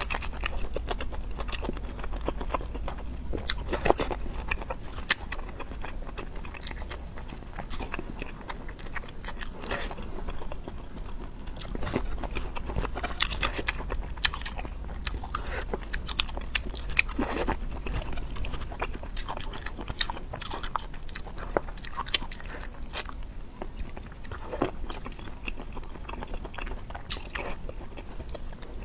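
A person chewing and biting into food close to the microphone, with sharp crunches at irregular intervals and a low steady hum underneath.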